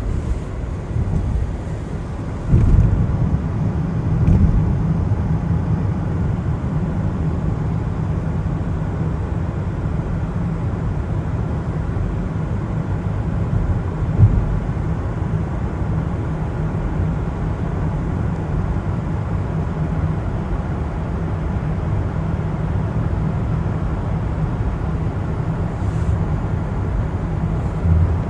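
Car driving on a wet road in the rain: a steady low rumble of road and tyre noise. The rumble gets louder about two and a half seconds in, and there is a brief knock about halfway through.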